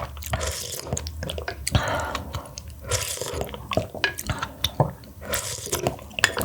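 Close-miked wet eating sounds: a person slurping and chewing a soupy mussel dish, with a run of small wet clicks and smacks.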